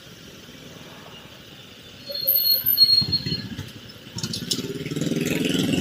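Vehicle engine heard through an action camera's built-in microphone while driving: a low rumble that grows louder about two seconds in. From about four seconds in it settles into a steady, stronger engine note. A brief high whine comes midway.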